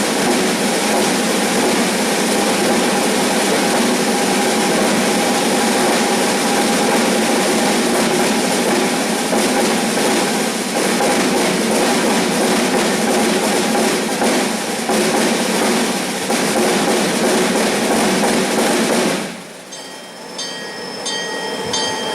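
Percussion ensemble imitating a running train: a dense, steady rushing and clattering of drums. About 19 seconds in it suddenly drops to a quieter passage of light, high, regular metallic ticks.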